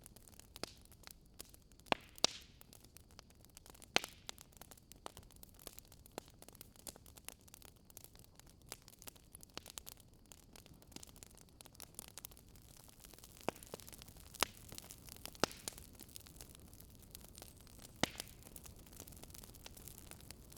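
Wood fire crackling: irregular sharp pops and snaps over a faint steady hiss, the loudest pops about two seconds in, at four seconds and near fourteen and eighteen seconds.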